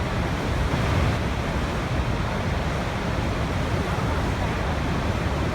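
Waterfall: a steady, unbroken rush of falling water with a deep rumble underneath.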